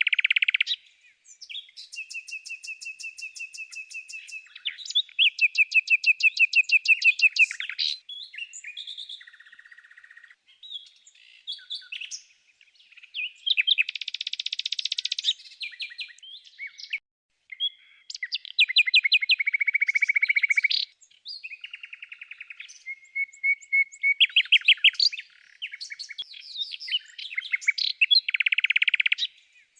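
A songbird singing a long, varied song: fast trills, rapid runs of repeated notes and buzzy phrases, with short gaps between phrases.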